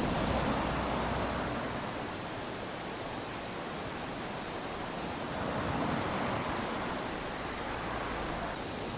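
Small waves washing up onto a sandy beach: a steady hiss of surf that swells twice, at the start and again about six seconds in, as waves run up the sand.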